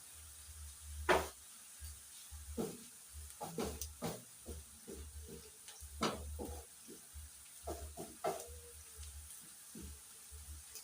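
Onions, ginger and garlic frying in oil in a pan with a faint sizzle. Scattered clicks and scrapes, the loudest about a second in, are typical of the pan being stirred.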